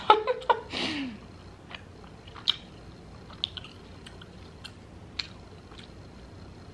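A person chewing a mouthful of crunchy chopped salad close to the microphone. A cluster of loud bites and wet mouth noises comes in the first second, then soft, scattered crunches.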